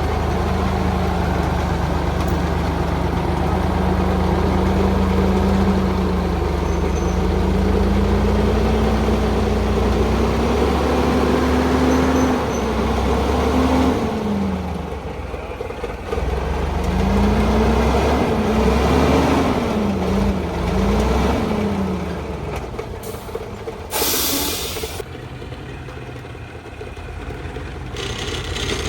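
Old truck's engine running, its pitch rising and falling as the revs change, easing off in the last few seconds. A brief sharp hiss cuts in about three-quarters of the way through.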